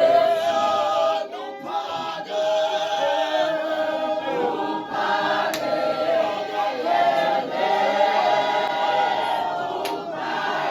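A choir singing together, many voices sustaining a hymn-like melody.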